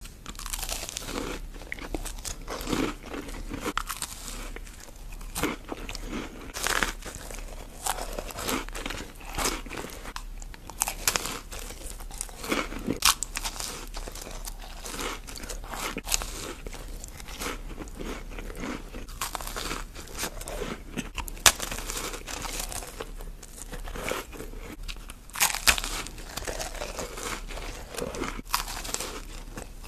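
Close-miked eating of macarons: crisp shells crunching and soft chewing, in irregular bursts of sharp crackles throughout.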